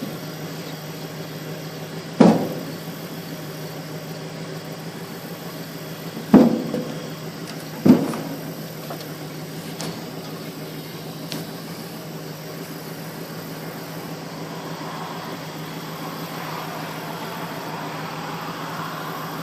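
Gleaner M2 combine engine running steadily at idle on a cold start, after sitting unused since the last harvest. Three sharp bangs cut through it about two, six and eight seconds in, each dying away quickly.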